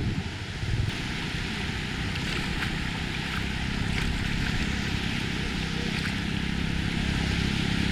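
Sea surf washing onto the beach with wind rumbling on the microphone. A steady low hum joins in about halfway through.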